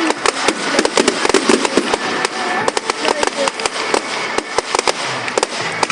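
Fireworks display going off: a dense, rapid barrage of sharp cracks and pops, several a second, over a continuous crackle.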